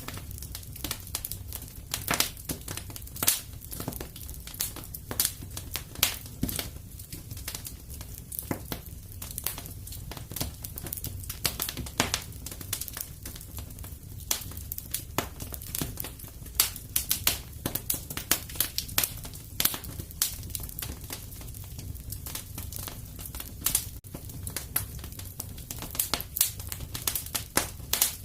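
Wood fire crackling and popping in a fireplace: irregular sharp snaps over a low, steady rumble of the flames.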